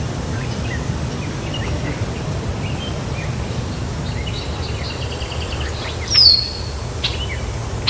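Birds chirping and trilling over a steady low rumble, with one louder call that sweeps down in pitch about six seconds in.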